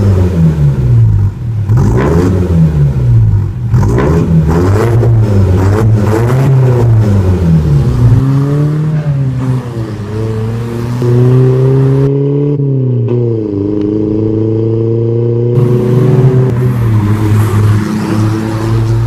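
Mitsubishi Adventure's engine through an aftermarket full catback exhaust, revved up and down repeatedly for several seconds, then climbing more steadily in pitch with one drop about twelve seconds in before it climbs again.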